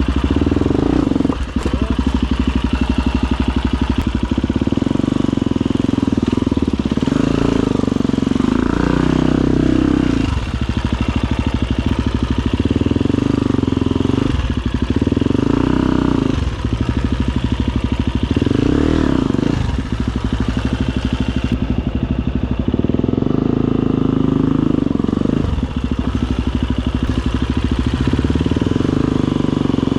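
Husqvarna FE250 enduro motorcycle's four-stroke single-cylinder engine running under load off-road. The revs rise and fall with repeated throttle bursts and drop briefly every few seconds.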